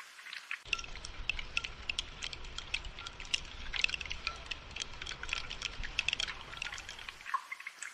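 Rain falling in many sharp, close drips and patters. From about a second in until near the end, a denser wash of rain with a low rumble runs beneath it.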